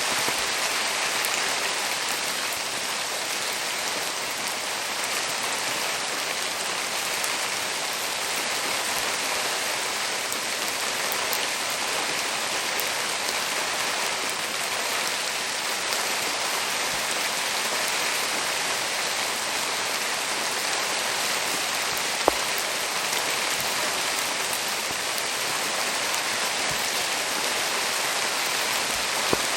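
Steady rain falling, an even hiss of drops throughout, with a single sharp pop about two-thirds of the way through and another near the end.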